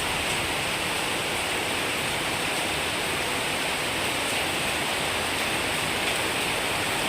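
Heavy, steady downpour of rain, a constant hiss with faint scattered ticks of drops.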